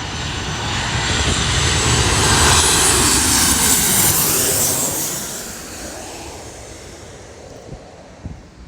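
Jet airliner's engines passing close by: a roar with a high whine that swells to a peak about three seconds in, then fades away.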